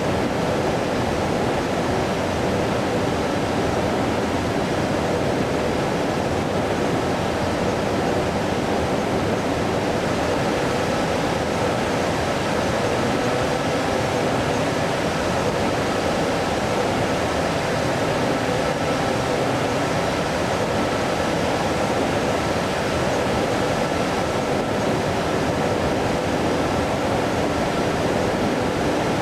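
Steady jet aircraft noise from an Airbus A330-300's turbofan engines: an even, unchanging rush with a faint steady hum in it.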